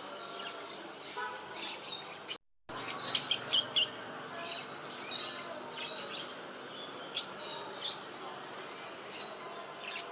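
Small cage birds chirping in quick, high-pitched calls, thickest about three to four seconds in. The sound cuts out completely for a moment just before that.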